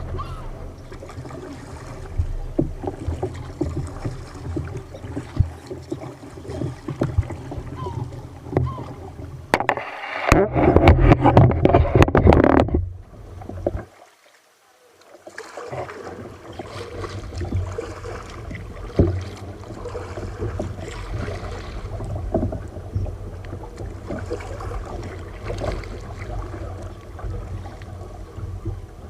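Water slapping and sloshing against a kayak's hull in rough sea, with small knocks throughout. About ten seconds in, a much louder splashing rush lasts about three seconds, followed by a short lull before the sloshing resumes.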